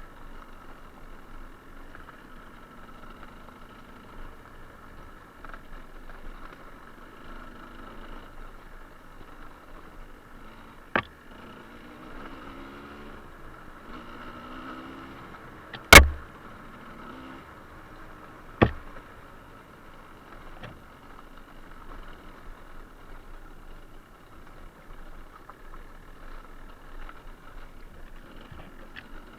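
Suzuki TS125R's single-cylinder two-stroke engine running at low revs, its pitch wavering. Three sharp knocks cut through it, the loudest about halfway through.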